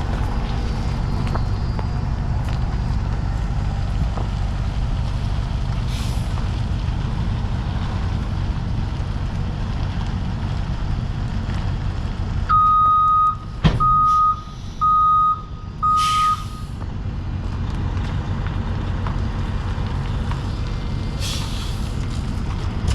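Heavy truck's diesel engine running steadily, with a backup alarm beeping four times about halfway through. Short hisses of air sound a few times.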